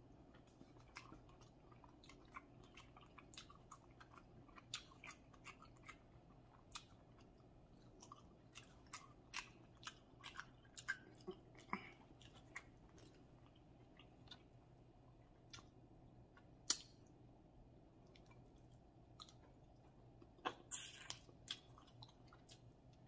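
Faint close-up sounds of a person chewing a seafood boil, with scattered soft clicks and a short cluster of louder ones near the end.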